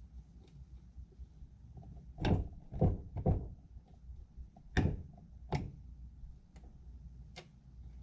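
Knocks and clicks of hand tools and metal parts being handled during a small-engine tiller repair: three sharp knocks close together about two seconds in, two more a little later, then two lighter clicks near the end.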